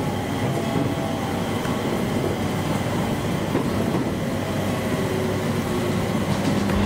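Electric train running noise heard from inside the car as it slows into a station: a steady rumble of wheels on rails with a faint motor whine that sinks slightly in pitch.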